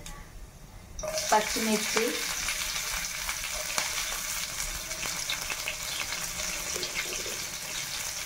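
Hot oil with cumin seeds sizzling in a stainless steel pan as green chillies are dropped in: a sudden rise about a second in to a steady crackling sizzle.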